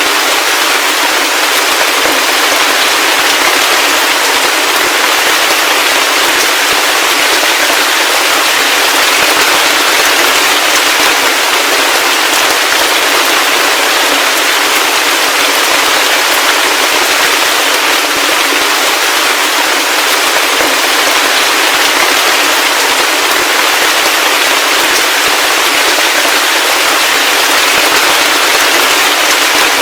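Heavy rain falling steadily: a dense, even hiss of crackling drops, with no deep rumble and no thunder.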